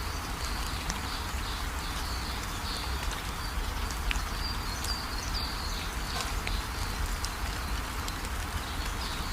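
Steady rain falling, with scattered drops ticking on surfaces and a low rumble underneath. Faint short calls of small animals repeat throughout, high above the rain.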